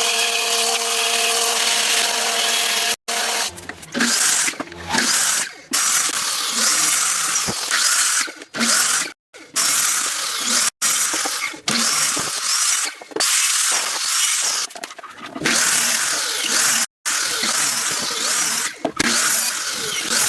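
Power tools working wood, heard as a run of short clips that cut abruptly from one to the next: a steady motor whine for about the first three seconds, then stretches of rough, hissing cutting noise that stop and start.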